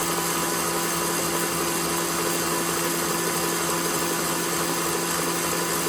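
KitchenAid Professional 6000 HD stand mixer's DC motor running at a steady speed, its wire whisk whipping chilled cream. It makes an even hum and whine with a hiss, unchanging throughout.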